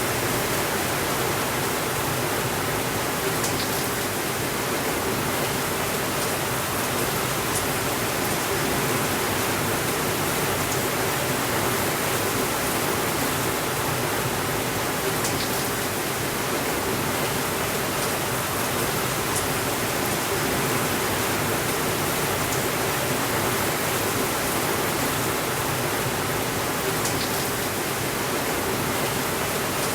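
Steady, even rainfall, with a few faint high ticks scattered through it.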